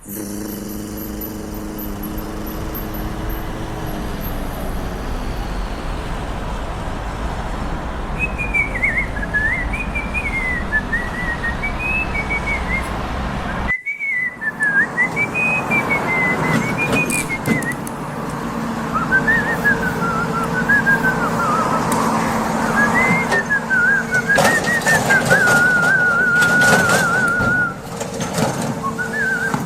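A person whistling a wandering tune, one wavering note line that begins about eight seconds in and runs on with short breaks. Underneath is a steady background rumble that cuts off abruptly about halfway through and is replaced by noisier background with scattered clicks.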